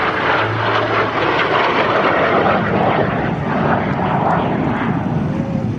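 F-86 Sabre's turbojet engine as the jet flies past, a loud, steady rushing sound.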